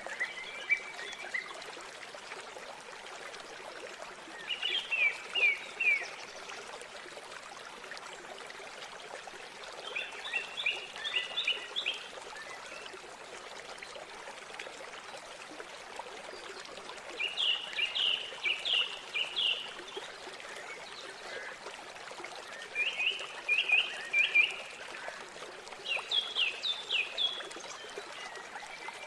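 River water flowing with a steady rush, while a bird sings a short phrase of quick high notes every few seconds, six phrases in all. Each phrase lasts one to two seconds and rises clearly above the water.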